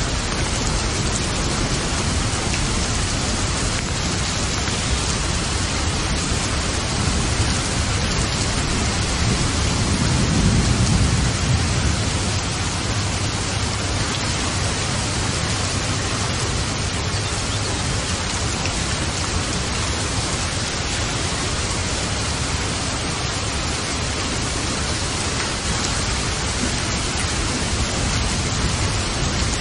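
Steady heavy rain falling, a continuous dense hiss. About ten seconds in, a low roll of distant thunder swells under the rain and fades within a couple of seconds.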